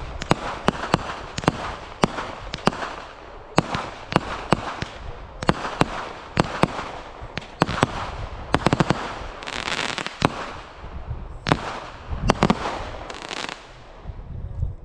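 Fireworks going off in a rapid, irregular string of sharp bangs with crackling between them, thinning out near the end.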